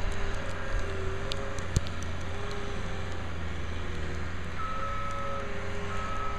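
Bobcat skid-steer loader clearing snow: its diesel engine runs steadily with a wavering whine, and in the last couple of seconds its backup alarm starts beeping in long, evenly spaced tones.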